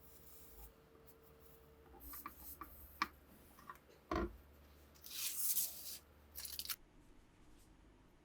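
A few small sharp clicks and a heavier knock, then two short bursts of hiss, the first about a second long.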